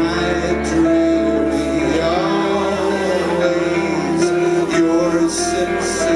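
Live band music: held notes over a steady low bass line.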